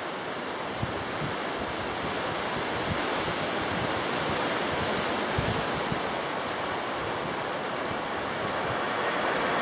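Strong gusty wind buffeting the microphone over a steady rushing hiss, with a faint steady high whine.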